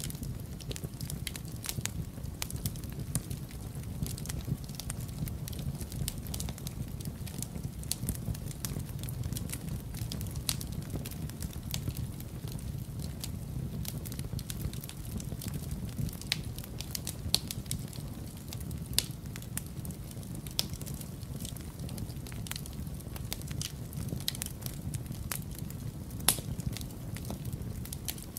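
Wood fire crackling in a fireplace: a dense stream of sharp pops and snaps over a steady low rumble, with a few louder pops in the second half.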